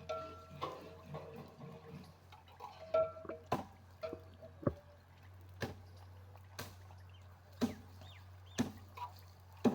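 A series of sharp knocks, about one a second in the second half, over a low steady hum.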